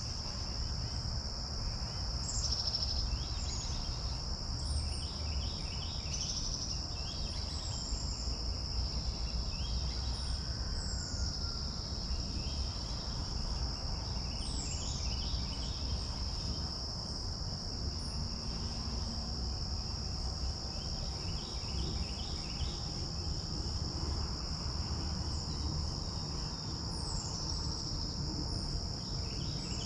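Continuous high, steady trill of insects, with birds calling over it: short downslurred calls and rapid series of repeated notes every few seconds. A low rumble of breeze on the microphone runs underneath.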